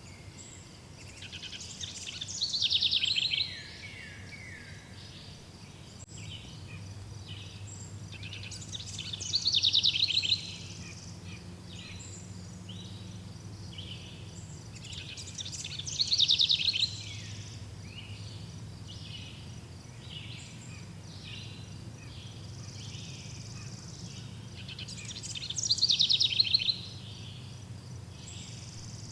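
A songbird singing the same loud, rapid phrase of falling notes four times, roughly every seven to nine seconds. Behind it runs a steady bed of short, repeated chirps.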